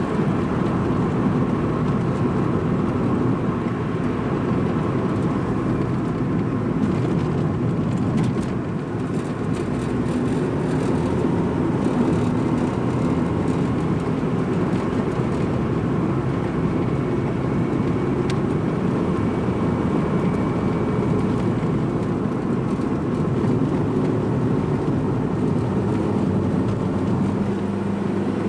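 Strong wind buffeting the microphone: a loud, steady low rumble that holds on without a break.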